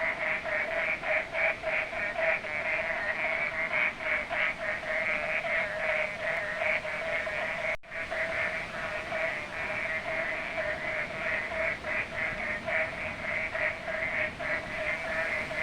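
A chorus of many frogs calling from the river, a dense, unbroken run of rapid pulsing croaks, with a very brief break about eight seconds in.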